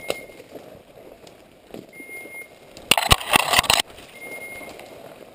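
Short electronic beeps from a hunting dog's beeper collar, three single tones about two seconds apart. Brush crackles and scrapes loudly for nearly a second just past the middle, over quieter rustling of walking through cover.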